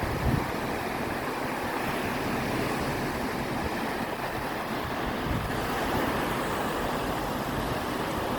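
Sea surf washing steadily on the shore, an even rushing noise, with a brief low thump right at the start.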